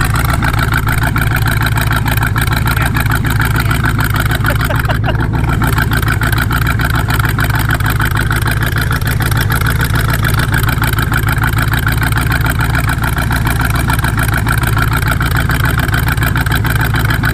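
A motor running steadily and loudly without change.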